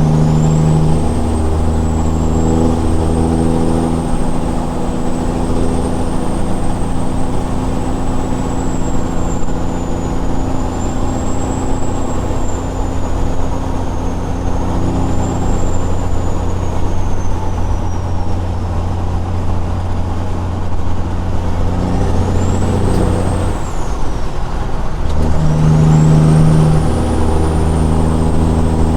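Straight-piped Caterpillar 6NZ diesel truck engine running steadily under way, a deep even drone with a thin high whine above it that wavers in pitch. Near the end the engine note briefly falls away, then picks back up strongly.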